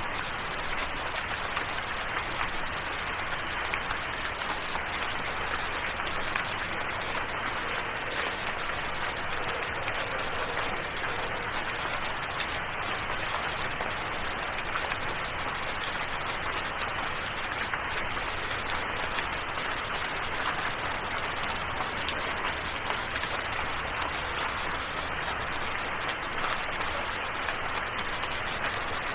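Steady, even rainfall: a dense patter of drops that does not let up.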